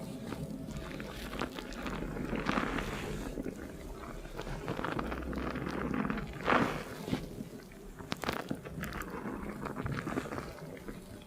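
Hands scrubbing a lathered scalp during a shampoo, with wet foam squishing and crackling close to the ears in binaural sound; the rubbing swells and fades unevenly, with one louder squelch about six and a half seconds in.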